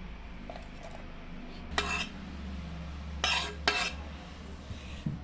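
Kitchen utensil scraping and clinking against a bowl and pan as food is moved into the pan: three short clatters, one about two seconds in and two close together around three and a half seconds, with lighter clicks between.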